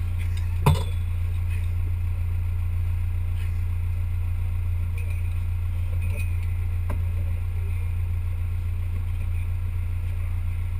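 Off-road 4x4 vehicle's engine running with a steady low drone, and a single sharp knock about a second in.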